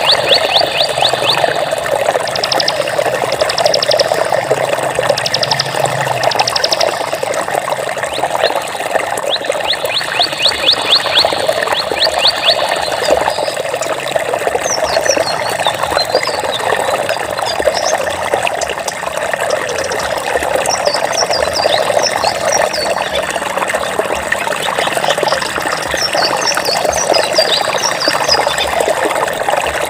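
Water flowing and rushing steadily. Over it come high, rapid trilling calls in several short runs through the first half, then scattered short high chirps in the second half.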